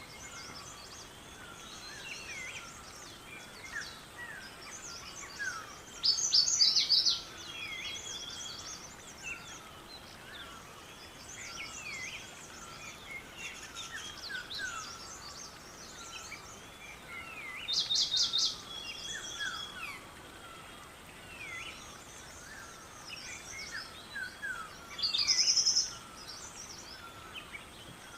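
Several wild birds singing and calling in a chorus: many short chirps and down-slurred whistles throughout, with three louder, quick trilled songs about six seconds in, around eighteen seconds, and near the end.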